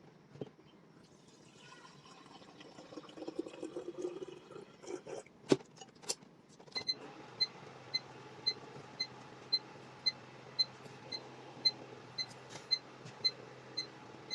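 A DIY espresso machine being filled and set to heat: a few clicks and knocks and a stretch of water being poured into the boiler, then a low steady hum with short high beeps about twice a second from about seven seconds in, as the boiler heats the water.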